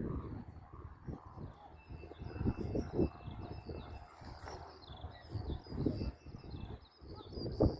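Small birds chirping in quick, short calls, thickest in the second half, over irregular low wind gusts buffeting the microphone. A faint steady high tone comes and goes.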